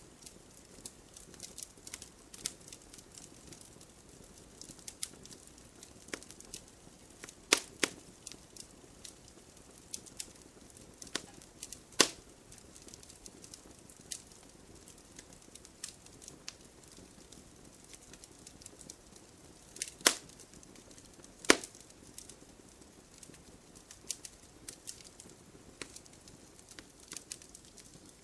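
Wood fire crackling: a steady scatter of small snaps over a soft hiss, with a few much louder, sharper pops now and then.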